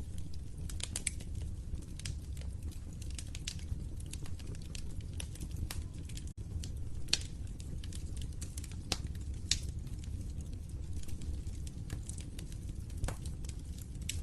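Wood fire in a fireplace crackling, with irregular sharp pops and snaps over a steady low rumble of the flames. A momentary break in the sound comes about six seconds in.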